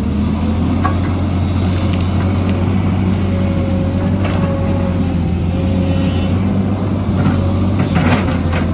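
Excavator's diesel engine running steadily under load, with a few short knocks and scrapes from the machine at work; the loudest cluster of knocks comes near the end.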